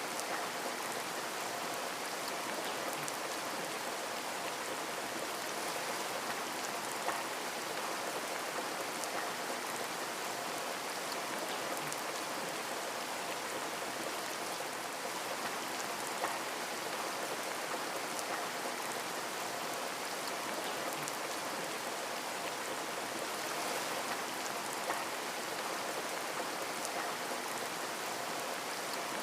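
Steady rain on a window, an even patter with scattered individual drop ticks and a few slightly louder drop hits.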